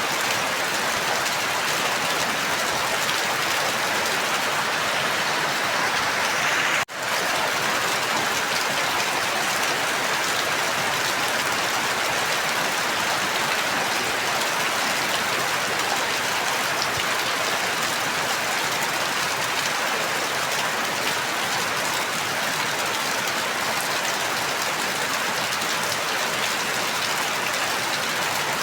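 Steady rain falling, an even hiss of drops. The sound cuts out for an instant about seven seconds in, then carries on unchanged.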